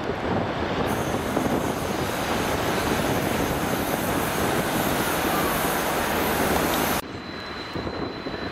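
A diesel multiple unit running in over the station approach tracks, its underfloor diesel engine and wheels on the rails making a loud, steady noise. The sound cuts off suddenly about seven seconds in, leaving a quieter rumble from a more distant train.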